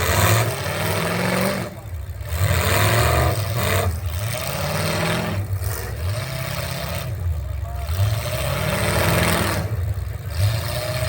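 Pro-class racing truck engine revving hard under acceleration. It drops off briefly every couple of seconds as the throttle lifts or a gear changes, then climbs again.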